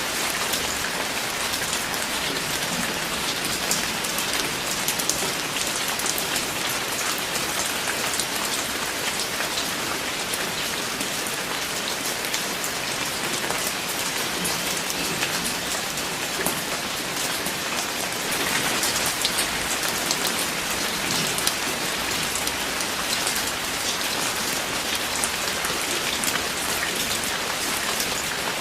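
Steady rain falling, with a dense hiss and many individual drops pattering on a surface.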